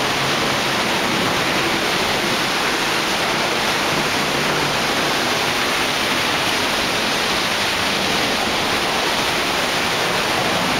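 Large waterfall crashing down, a loud, steady roar of falling water heard from right behind the falls.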